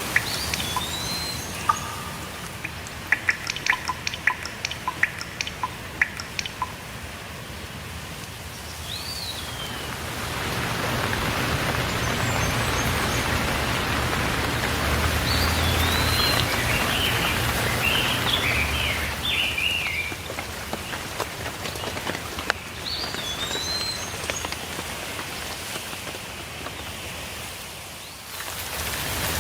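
Steady rain, with sharp drips falling in a cluster during the first few seconds, and birds chirping now and then. A short arched call repeats several times, and a quick run of chirps comes around the middle. The rain's hiss grows louder about a third of the way in and eases off near the end.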